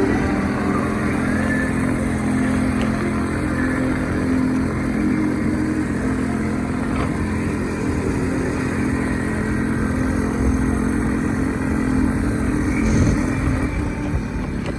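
Small motorcycle engine running at a steady speed, its pitch holding level, shifting slightly near the end.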